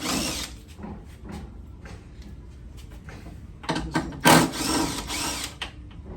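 Power drill spinning a bolt out inside a truck door, in two short runs: a brief one at the start and a longer one of about two seconds near the middle, its whine rising and falling with the trigger.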